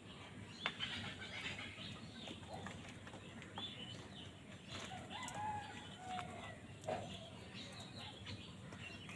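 Birds calling, with many short calls and chirps overlapping one another.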